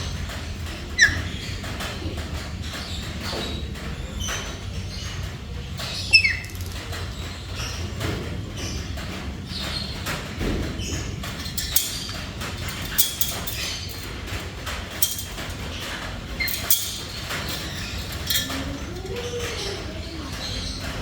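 Black-capped lory giving short, sharp calls with quick downward pitch glides, the loudest about a second in and about six seconds in, with further short calls and clicks scattered through over a steady low hum.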